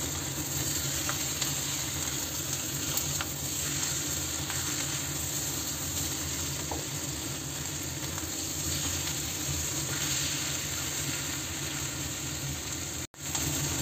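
Chicken pieces frying with onion, garlic and ginger in a stainless-steel wok, sizzling steadily while a wooden spatula stirs them, with a few light scrapes. The sound cuts out for a moment near the end.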